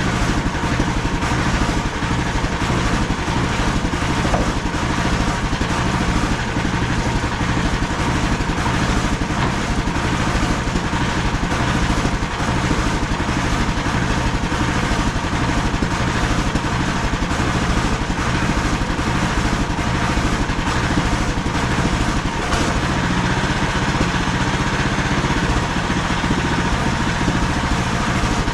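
Gasoline engine of a MechMaxx SM32 portable bandsaw mill running steadily.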